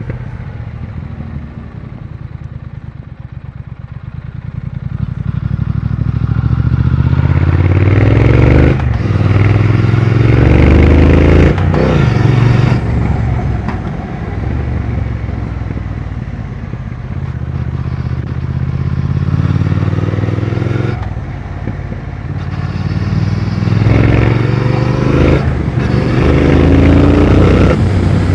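Triumph Speed Twin 1200's parallel-twin engine being ridden hard through the gears: it starts lower and quieter, then climbs in pitch in several pulls, each cut short by a gear change, with steadier stretches between.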